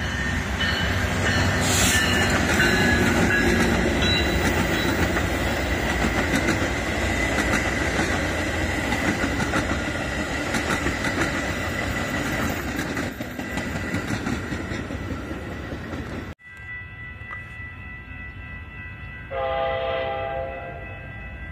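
A Metra commuter train of silver bilevel cars passing close by at speed, its wheels clattering on the rails. The sound cuts off abruptly about sixteen seconds in. Near the end a distant train horn sounds one blast of about a second.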